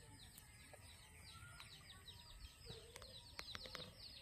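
Faint, rapid chirping of birds: short high chirps, each sliding down, repeating several times a second, with a few sharp clicks about three seconds in.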